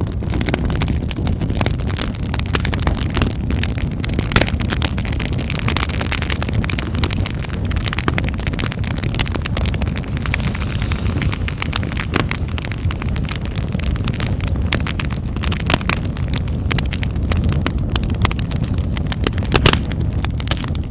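Fire burning in a fireplace: a steady low rumble of flames with frequent sharp crackles and pops.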